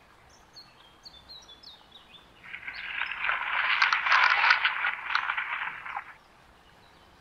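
Small birds chirping faintly, then a loud rushing hiss that starts abruptly about two and a half seconds in and cuts off about three and a half seconds later.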